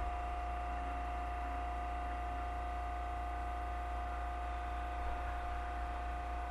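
Interior of a Tobu 30000 series electric train car standing still with its doors shut: a steady electrical hum from the car's onboard equipment, with one constant mid-pitched tone over a low drone.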